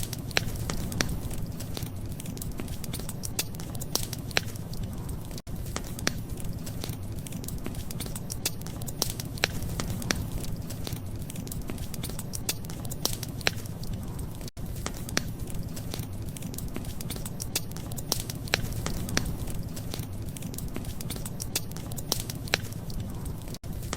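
Wood fire crackling in a fireplace: irregular sharp pops and snaps, several a second, over a steady low rumble of the flames. The sound cuts out for an instant three times.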